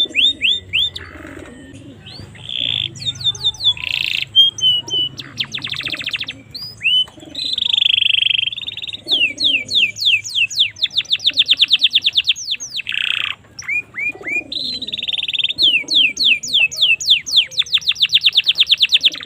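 Domestic canary singing a long, continuous song: fast trills of rapidly repeated notes alternating with buzzy rolls and quick sweeping whistles.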